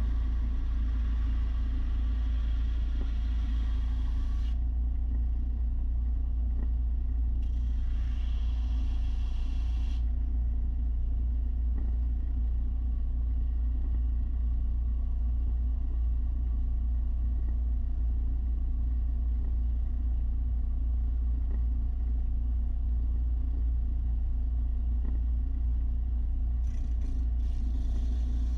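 Electric belt sander running steadily with a deep motor hum. A steel lawn mower blade is ground against its 300-grit belt, adding a higher grinding hiss for the first four seconds or so and again from about 7 to 10 seconds in.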